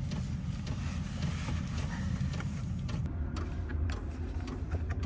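Diesel parking heater running with a steady low rumble.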